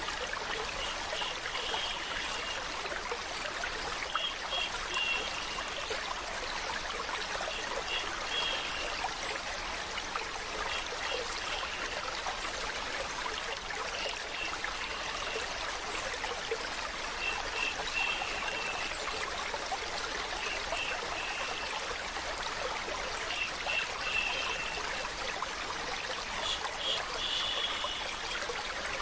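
Stream water running steadily, with short high notes recurring in small clusters every few seconds.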